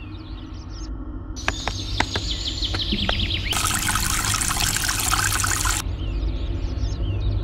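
A rhythmic collage of spliced forest sounds over a low, building bass. Bird-like chirps are cut in and out, then a run of sharp cracks like snapping limbs. After that comes a burst of dense, rushing noise of about two seconds, and the chirps return.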